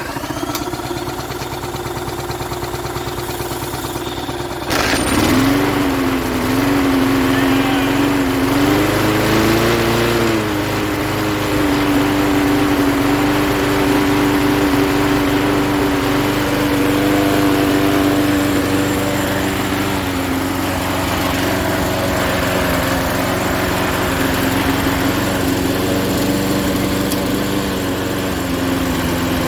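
Briggs & Stratton 3.5 hp lawn mower engine running. About five seconds in it gets louder, its speed wavers up and down for a few seconds, then it settles and runs steadily.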